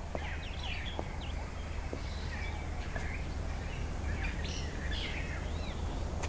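Birds chirping and calling in many short notes that sweep quickly up and down, over a steady low background hum, with a few faint ticks.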